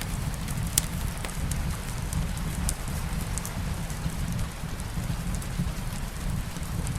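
Steady soft rain over a low rumble, with a few sharp crackles from a wood fire scattered through it; the loudest crackle comes about a second in.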